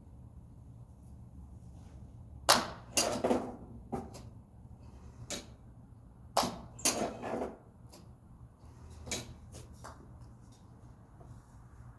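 Golf clubs striking balls: a series of sharp cracks with a short ring after each, about eight in all. The loudest come about two and a half and six and a half seconds in, some in quick pairs, over a low steady hum.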